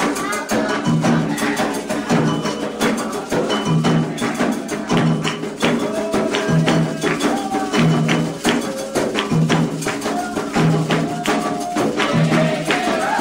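Candomblé ritual drumming: atabaque hand drums and a metal bell or rattle playing a steady, repeating rhythm, with voices singing over it.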